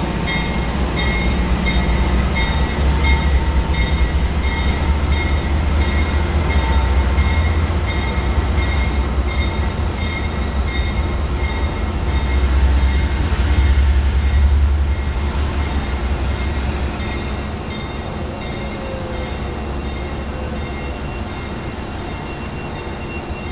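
Amtrak locomotive at work on the tracks: a deep rumble with a steady high-pitched whine over it. The rumble eases off about two thirds of the way through.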